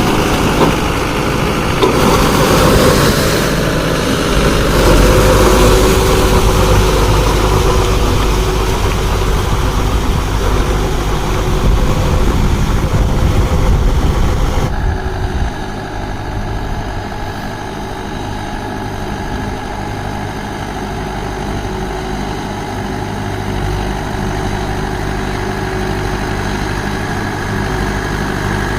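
Mahindra 595 Turbo tractor's diesel engine running steadily. About halfway through the sound changes abruptly: the hiss on top drops away and a lower, steadier engine hum carries on.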